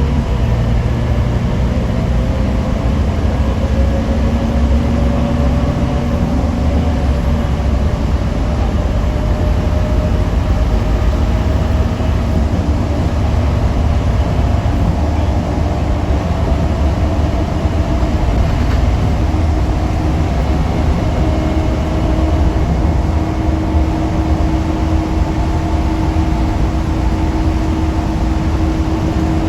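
Scania K310UB6X2 bus driving under way: its 9-litre five-cylinder diesel and drivetrain make a steady low rumble, with faint whining tones that slowly rise and fall as the bus speeds up and slows.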